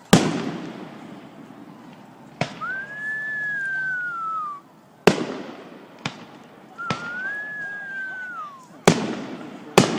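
Fireworks going off: about seven sharp bangs across the ten seconds. Twice a long whistle follows a bang, holding its pitch and then gliding down, as from whistling shells.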